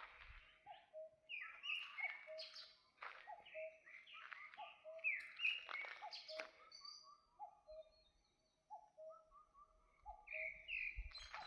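Mixed birdsong: one bird repeats short, low, slightly falling whistled notes over and over, while other birds sing bright, rapid high chirps and trills over it.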